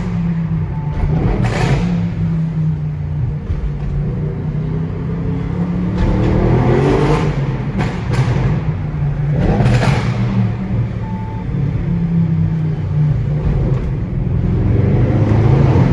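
Audi RS6 exhaust burbling loudly, with the engine revved and let fall a few times, surging about a second in, around seven seconds in and around ten seconds in.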